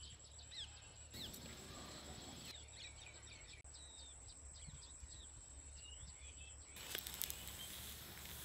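Small birds chirping faintly and repeatedly in short rising and falling notes. A louder stretch of even hiss with a few sharp clicks comes near the end.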